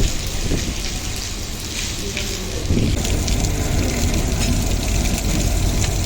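Passenger train running on the rails with a steady low rumble, mixed with the hiss of rain falling.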